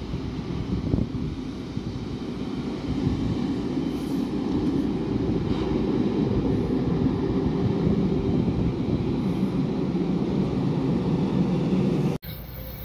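Freight train hauled by an ÖBB class 1144 electric locomotive, its wagons rumbling steadily along the rails, growing louder about three seconds in. The sound cuts off suddenly near the end.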